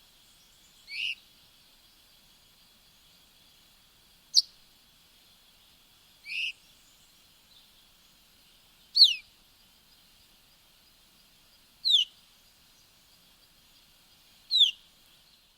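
A bird giving six short, high whistled calls that slide down in pitch, spaced two to three seconds apart, over a faint steady high-pitched hiss.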